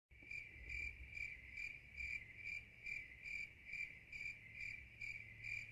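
Cricket chirping steadily, about two and a half short chirps a second: the stock 'crickets' sound effect for an awkward silence in which nobody answers.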